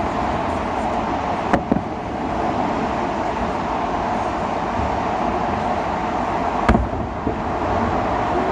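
Bangs of a fireworks salute: a quick pair about one and a half seconds in and a single louder one near seven seconds. They sound against steady city traffic noise.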